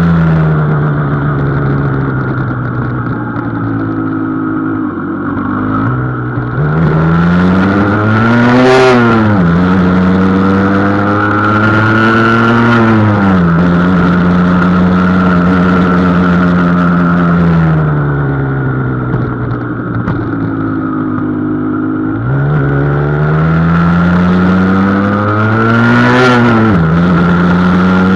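Husqvarna SM 125 two-stroke single-cylinder engine under hard acceleration with its factory restrictions removed. The revs climb steeply twice, peaking about nine seconds in and again near the end, each time dropping suddenly to a steady cruise; the engine eases off in between.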